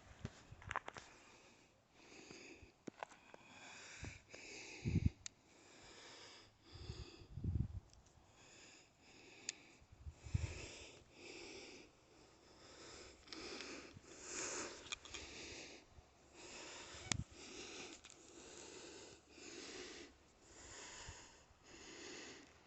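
A person's breathing close to the microphone, soft regular puffs about once a second, with a few short low thumps.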